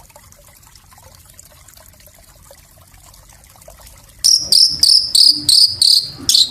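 Small songbird's masteran song: after about four seconds of faint background, a loud, fast run of short high notes starts, about four or five a second.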